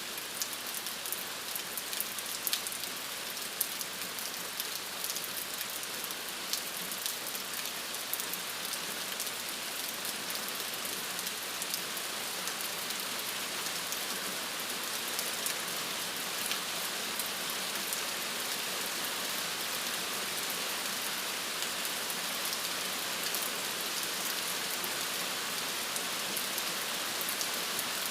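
Steady rain falling, an even hiss with many fine, sharp drop ticks.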